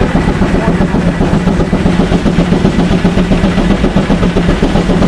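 Vintage steam tractor working under heavy load on a horsepower test, with a steady hum and a fast, regular pulsing beat.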